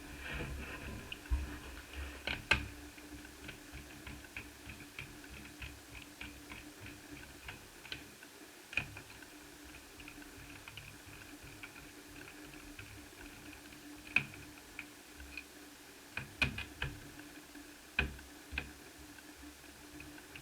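Small irregular clicks and ticks of a screwdriver working screws out of a laptop's plastic bottom case, with a few sharper knocks scattered through, over a faint steady hum.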